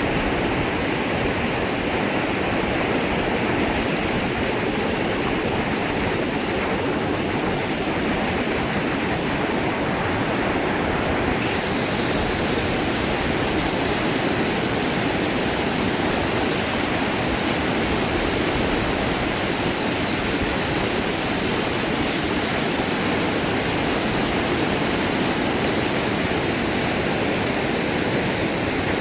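Fast-flowing river water rushing steadily. The high hiss of the water shifts abruptly about a third of the way in.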